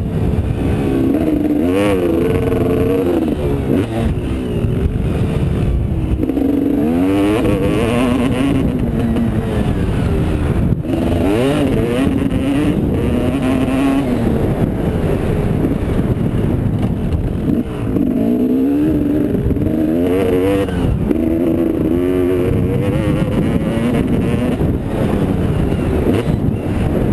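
Motocross motorcycle engine revving up and down again and again as the bike is ridden round a dirt track, the pitch climbing and dropping every second or two.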